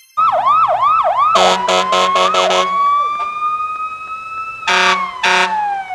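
Fire engine siren, first sweeping quickly up and down a few times, then settling into a slow rising wail. Its air horn sounds in about five short blasts in the first half, and two more near the end.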